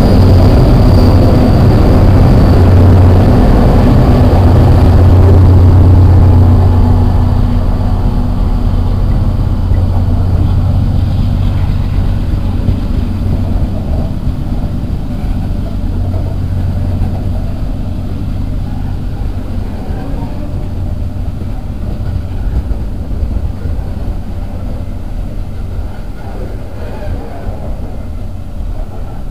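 CSX freight train passing close by. The diesel locomotives' low engine drone fades after about six seconds, followed by a long run of open-top freight cars with a steady rolling rumble and clatter of wheels on the rails, slowly getting quieter.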